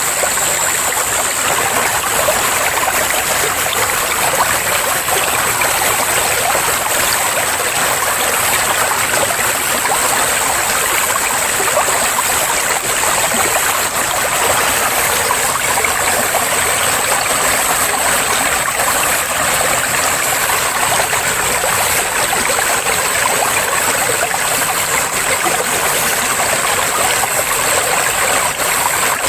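Water flowing in a stream, a steady rush with trickling, and a steady high hiss above it.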